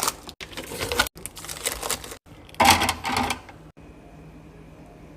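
Clattering and rustling as items are handled and set down, in several short bursts with the loudest about two and a half seconds in, followed by a faint steady low hum.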